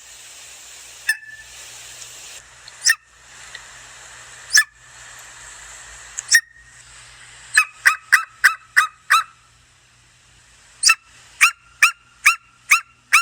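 A bird giving short, sharp calls: four single calls spaced a couple of seconds apart, then two quick runs of about six calls each, roughly three a second.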